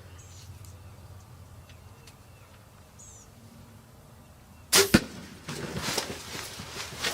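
A bow shot: a sharp crack of the string and arrow about two-thirds of the way in, a second sharp knock right after it, then a run of rustling and thumps as the hit birds go down. Faint bird chirps sound twice before the shot.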